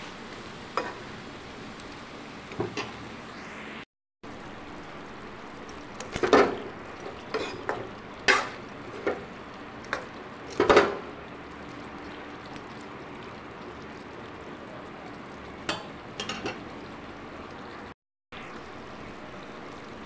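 Pumpkin cubes sizzling in oil in a kadhai while a spatula stirs them, scraping and knocking against the pan in short clusters, loudest around six and ten seconds in. The sound cuts out for a moment twice.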